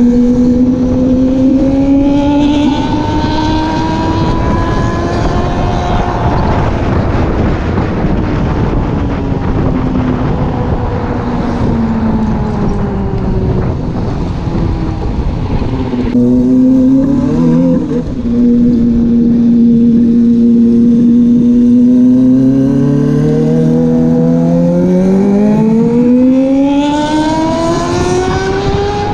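Motorcycle engine and exhaust running under load, its note rising as it accelerates and falling as it eases off. The sound changes abruptly about halfway through, holds a steady note, then climbs again near the end.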